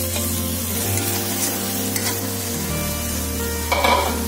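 Marinated chicken pieces sizzling in hot oil in a metal pan, with stirring and a louder scrape near the end. Background music with sustained low notes runs underneath.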